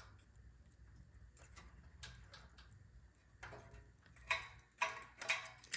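A few light metallic clicks and taps in the second half, from a feeler gauge being worked into the intake valve's rocker-arm gap, where the clearance is too tight.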